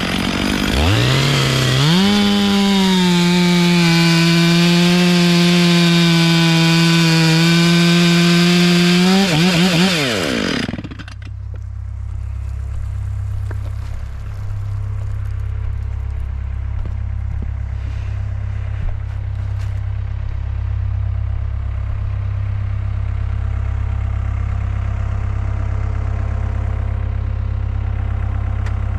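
Two-stroke chainsaw revving up and running at full throttle for about eight seconds, then throttling back with a falling pitch. From about eleven seconds a steady low engine idle continues to the end.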